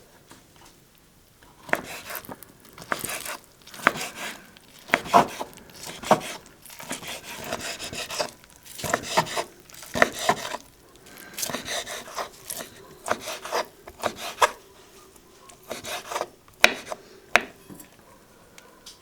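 Food being worked by hand on a wooden board: irregular scraping and rubbing strokes mixed with sharper knocks, in uneven bursts for about fifteen seconds, stopping about two seconds before the end.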